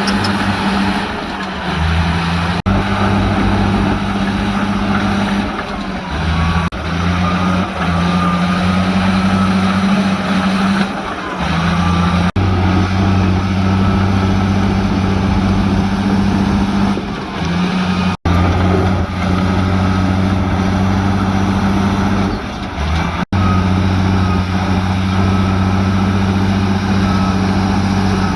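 Heavy construction-machine diesel engines running steadily under load, the low drone shifting in pitch every few seconds and breaking off abruptly a few times.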